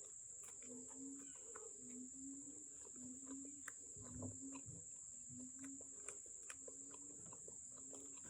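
Faint chewing and mouth clicks over a steady high-pitched insect trill, with a short low note repeating many times, about once a second.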